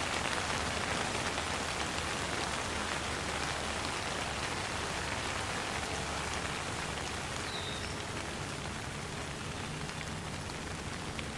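Steady rain falling: a dense, even hiss with scattered small drop ticks.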